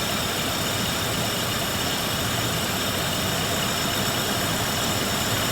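Car engine idling steadily, running normally again now that the water-contaminated gasoline has been cleaned out of the tank and the clogged injector cleared.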